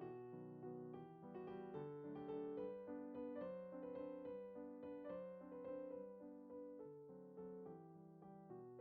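Soft background piano music, a gentle melody of quick, evenly paced notes.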